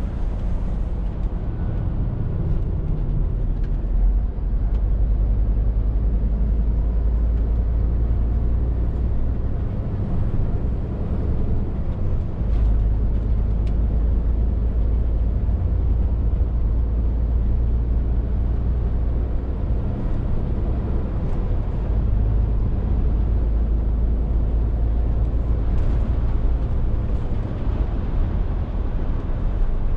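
Scania R450 lorry's 13-litre six-cylinder diesel engine running steadily on the move, a deep continuous rumble that eases briefly a little after ten seconds in, then picks up again.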